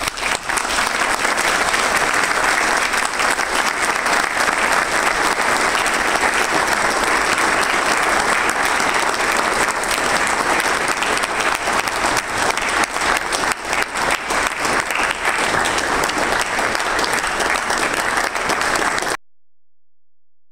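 Audience applauding steadily, the clapping cutting off suddenly near the end.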